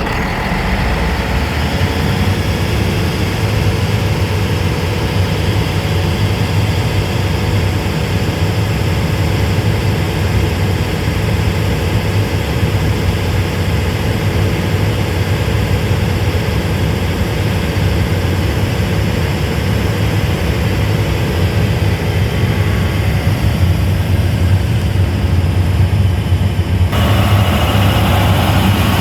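Sullair 1600H portable air compressor's diesel engine running steadily with a heavy, low drone. About two seconds before the end the sound turns brighter and noisier.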